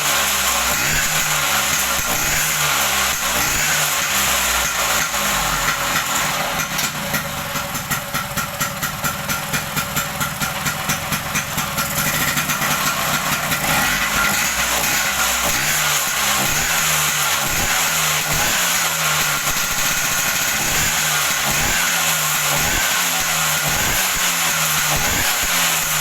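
Bajaj Vespa scooter's two-stroke single-cylinder engine running steadily at idle, with a stretch of rhythmic pulsing about a third of the way in.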